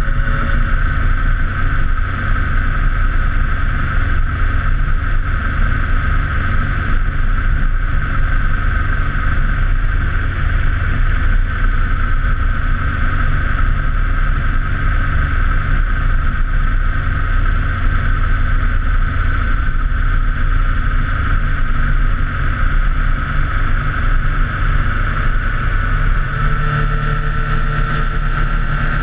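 Motorcycle engine running steadily while riding at speed, with wind rushing over the microphone; the engine note shifts slightly near the end.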